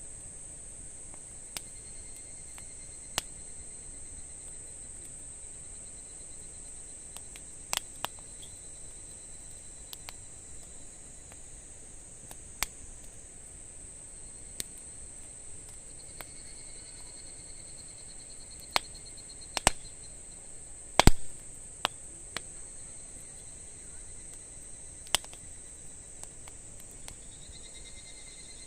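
Insects chirring in a steady, high, continuous trill, with a fainter second trill coming and going. Over it a campfire gives scattered sharp pops and crackles, the loudest a short cluster of pops about three-quarters of the way through.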